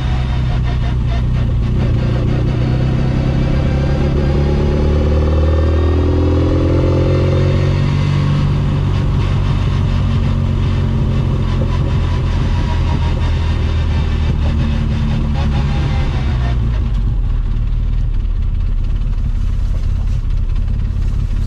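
Classic Mini's 1380 cc A-series engine heard from inside the car while driving, rising in pitch as it accelerates a few seconds in, then running steadily.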